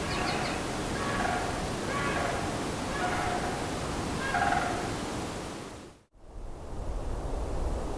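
Sandhill crane calling over a steady background hiss, one call about every second, then fading out about six seconds in.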